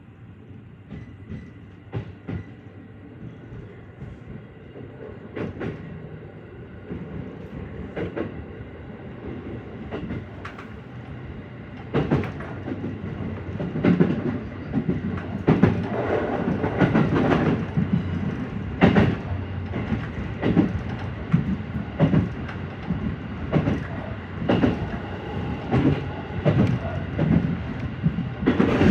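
JR Central 313 series electric train running, its wheels clacking over rail joints. The clacks and running noise grow louder and come more often as the train gathers speed.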